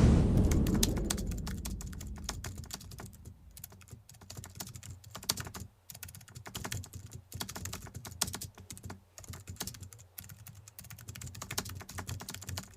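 Thunder from a nearby lightning strike rumbling and fading away over the first couple of seconds, followed by a long run of faint, irregular clicks and ticks.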